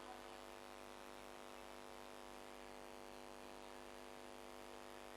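Near silence with a steady electrical hum and faint hiss.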